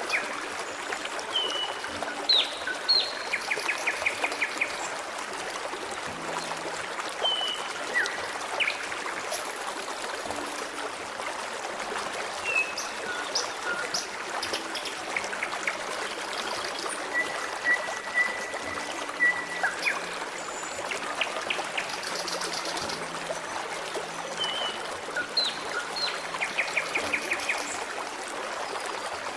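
Forest stream trickling steadily, with small birds singing over it: short chirps and whistles, a few quick trills and one longer held whistle.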